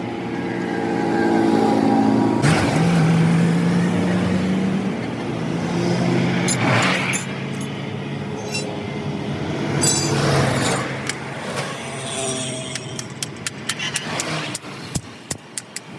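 Motor vehicle engines running, their pitch shifting, with a quick run of sharp clicks and taps over the last few seconds.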